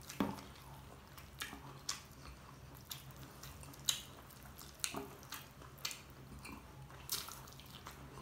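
Close-up mukbang eating sounds: a person chewing fried dynamite shrimp with a mouth full, with short wet clicks and smacks about once a second, over a faint steady low hum.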